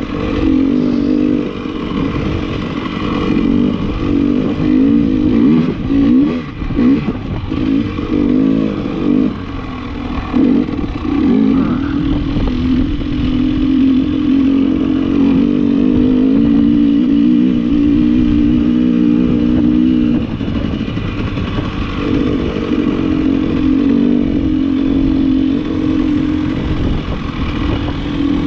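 KTM 300 XC-W TPI two-stroke dirt bike engine running under way, the engine note rising and falling unevenly for the first third, then held fairly steady, with a short drop about two-thirds through.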